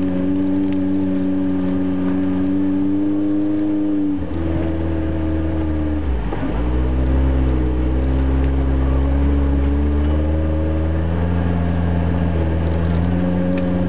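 4x4 engine pulling through snow, heard from inside the cab. Its steady note drops about four seconds in, dips and recovers sharply around six seconds, then climbs again near the end.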